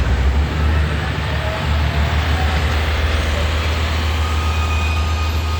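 Heavy construction-machine diesel engine running steadily under load, a deep low drone.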